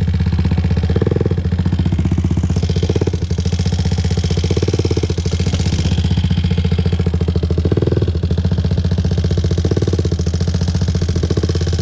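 2001 Honda TRX400EX ATV's single-cylinder four-stroke engine running steadily, its firing pulses evenly spaced.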